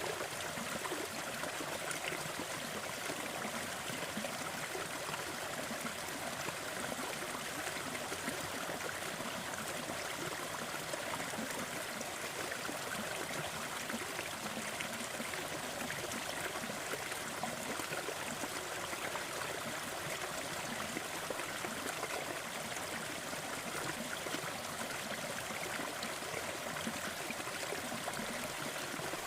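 Fireplace crackling, with small scattered pops over a steady rushing hiss.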